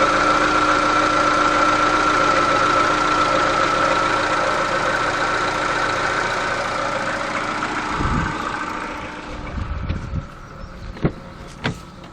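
Chevrolet Cruze's 1.6-litre four-cylinder petrol engine idling steadily after about five minutes of running, with a steady whine over it. About nine seconds in the engine sound drops away, and a few low thumps and two sharp clicks follow near the end.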